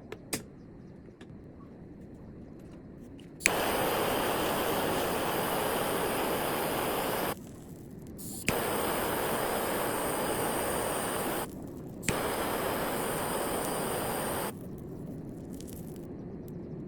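Three bursts of hissing spray, each a few seconds long, each starting with a click and cutting off abruptly.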